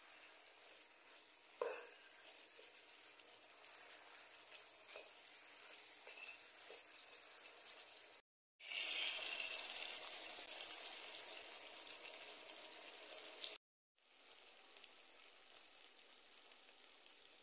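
Pork rib pieces sizzling and frying in a thick barbecue sauce in a pan, with a single knock about two seconds in. The sizzle gets much louder for about five seconds from just past halfway, and the sound cuts out briefly twice.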